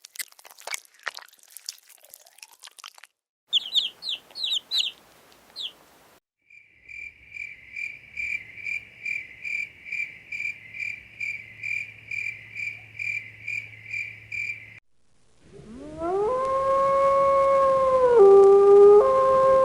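A run of separate animal sounds: dry crackling clicks, a few quick high chirps, then a long series of even, short high-pitched calls about two a second. Near the end comes a loud, long howl held on one pitch, dipping briefly and rising again.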